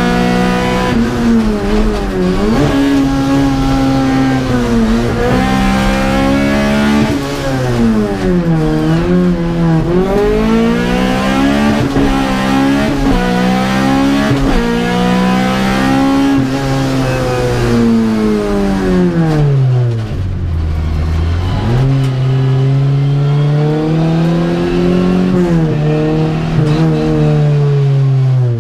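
Honda Civic VTi Group A race car's 1.6-litre VTEC four-cylinder engine, heard from inside the stripped cabin, revving hard up through the gears and dropping back for corners. The pitch climbs and falls again and again. About twenty seconds in it sinks deep and low, then picks up again.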